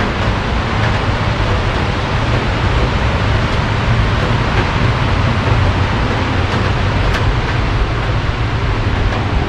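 Heavy rain falling steadily: a dense, even hiss with a deep low rumble underneath and a few faint ticks.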